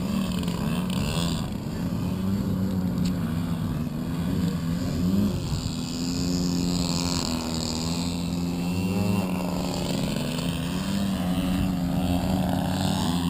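Large-scale radio-control model airplane engine running in flight, a steady drone whose pitch shifts up and down a few times.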